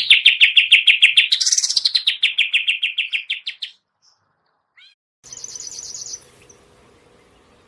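A caged songbird sings a fast trill of evenly repeated notes, about ten a second, that stops abruptly about halfway through. After a pause, a shorter, higher chirping follows over a faint hum.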